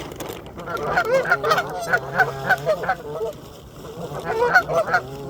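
Waterfowl calling: a quick run of short, harsh calls from about a second in until about three seconds, then a second run near the end.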